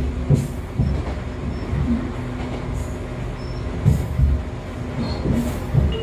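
Running noise of an Echizen Railway MC6101-series electric railcar (a former Aichi Loop Railway 300-series car with MT54 DC series-wound motors), heard from inside the car. A steady low rumble and hum run throughout, and the wheels thump over rail joints, several times in quick pairs. The unit recorded is the car known as the "abnormal-noise car".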